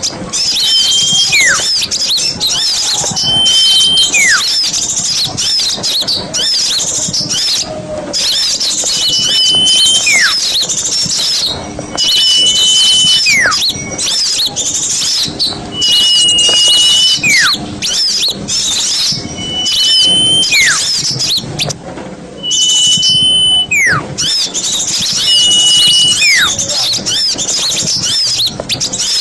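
Small-bird lure call: dense high-pitched chattering of many small birds, with a short level whistle and then a falling whistle repeating about every three seconds.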